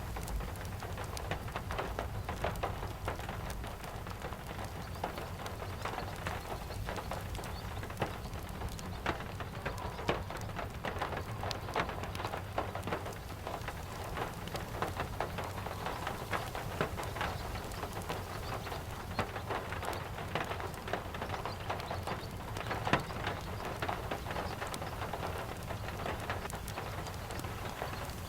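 Steady rain falling, with many small sharp crackles and pops throughout, over a steady low rumble. It is a rain-and-wood-fireplace ambience.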